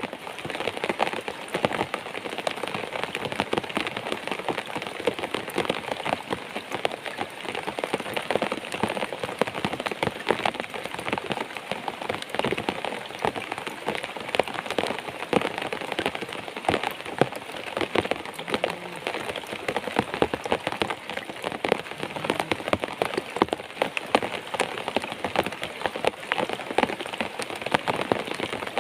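Steady rain falling, a dense, even scatter of sharp drop ticks close to the microphone.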